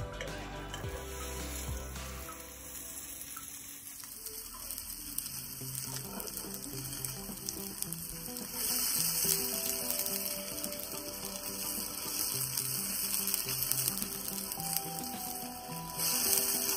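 Fat sizzling in a frying pan around rolled bread rolls as they fry, growing louder about halfway through and again near the end. Soft background music plays underneath.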